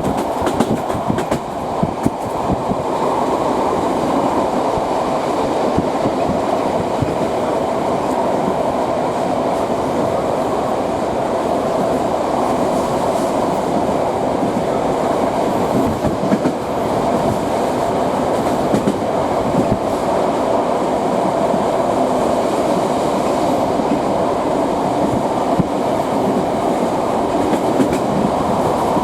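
D1 diesel multiple unit under way, heard from inside the carriage: a steady running rumble with the clack of wheels over rail joints now and then.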